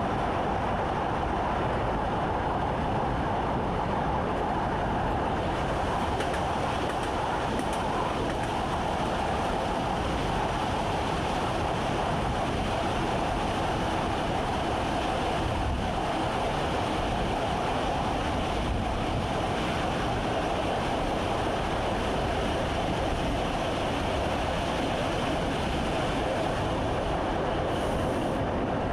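Train running steadily, heard from inside the driver's cab: a continuous rumble of wheels and track with a steady hum over it.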